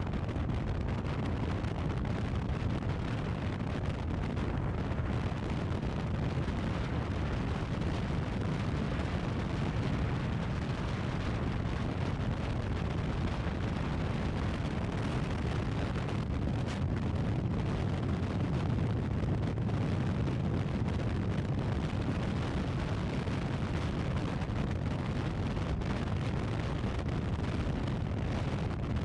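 Steady wind roar buffeting the camera microphone on a moving Honda Crosstourer 1200 motorcycle, with the bike's V4 engine running under it, heaviest at the low end.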